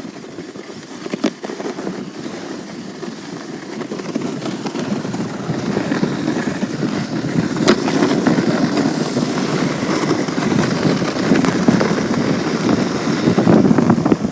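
A sled sliding down a snow-covered street, its runners scraping and rumbling over the packed snow, getting louder about a third of the way in as it picks up speed.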